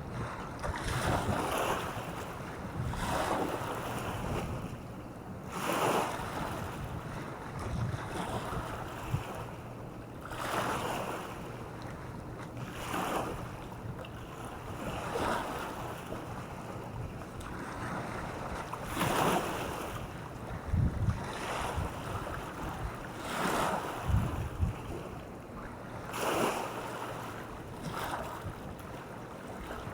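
Small waves breaking and washing onto the shore every two to three seconds, with wind buffeting the microphone.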